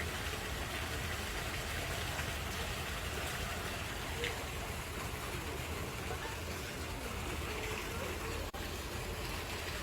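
Steady rushing outdoor noise with a low rumble, and faint distant voices.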